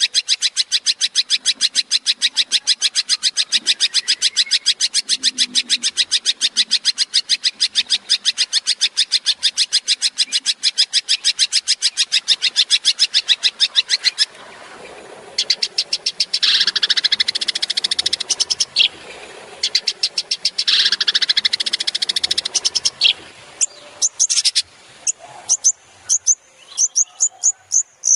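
Long-tailed shrike (cendet) calling: a fast, even series of sharp repeated high notes, about seven a second, for some fourteen seconds. Then come two harsh rasping bursts of a couple of seconds each, and a few spaced sharp notes near the end.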